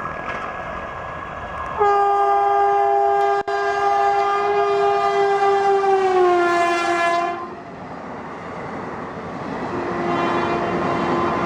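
Train horn sounding one long blast of about six seconds as a train passes at speed, its pitch dropping shortly before it stops, over the rumble and clatter of wheels on the track. A quieter horn note starts near the end.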